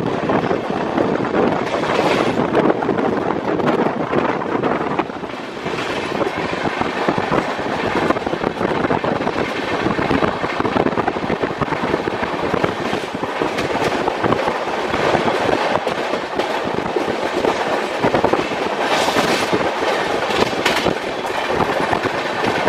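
Express passenger train running at speed, heard from the open doorway of a coach: a continuous rolling rumble with wheels clattering over rail joints and crossovers. The clatter swells briefly a few times.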